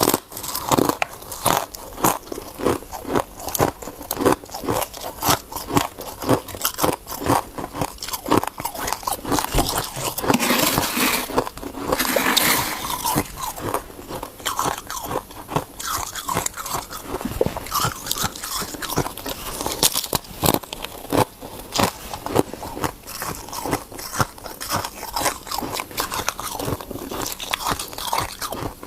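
Ice being bitten and chewed close up: irregular sharp cracks and crunches of hard ice breaking between the teeth, densest about ten to thirteen seconds in.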